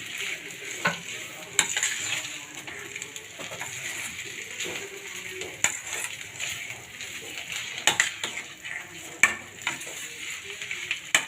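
Dry pepper chicken sizzling in a pan as it is stirred, with a metal spatula clinking sharply against the pan every second or two.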